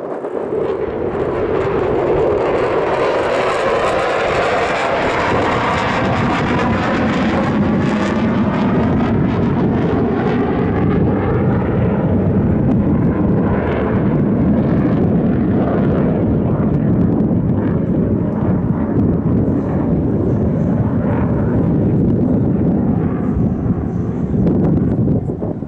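Aircraft flying past at an airshow display, its engine noise loud and sustained, with the pitch of the noise sweeping slowly as it passes overhead.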